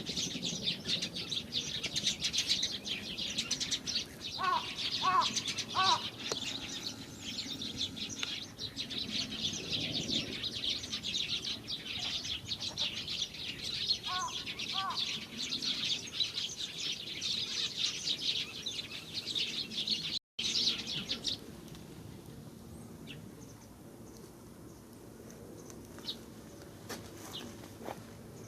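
A dense chorus of many small birds chirping rapidly and high-pitched, with a short call of a few lower notes heard twice. About two-thirds through, the sound cuts out for a moment and the chorus gives way to faint scattered chirps.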